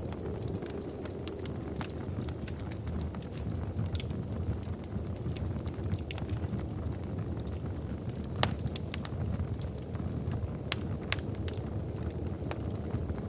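Wood fire burning in a fireplace, crackling: irregular sharp pops and snaps over a steady low rumble of the flames, one louder pop about eight and a half seconds in.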